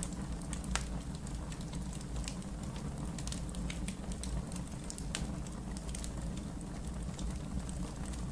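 Wood fire burning in a fireplace: a steady low rumble of flame with irregular sharp crackles and pops of burning logs, a couple of them louder than the rest.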